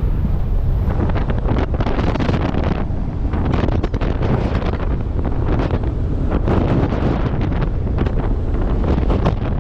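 Heavy wind buffeting the camera microphone: a loud, steady rumble with gusty surges.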